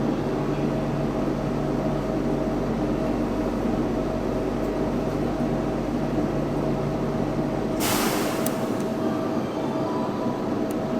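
Inside a Yurikamome 7300-series rubber-tyred automated guideway train: a steady hum with a constant whine. The lower hum drops away about eight seconds in, just as a short hiss sounds.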